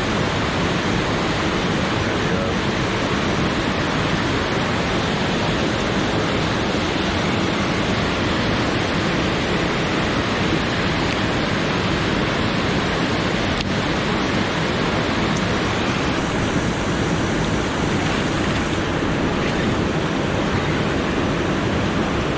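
Steady rush of fast-flowing river water, an even noise with no change in level.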